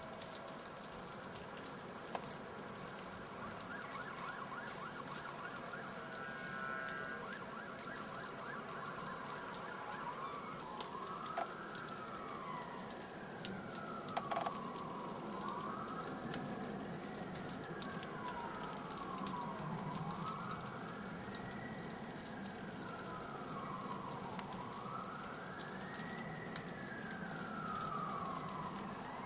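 An emergency vehicle siren wailing, its pitch slowly rising and falling about every five seconds, starting about a third of the way in. Underneath runs a steady hiss with scattered small ticks.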